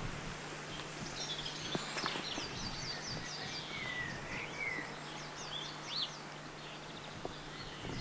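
Small songbirds chirping and singing: quick runs of short high notes, with a lower warbling phrase about four seconds in, over a faint steady low hum.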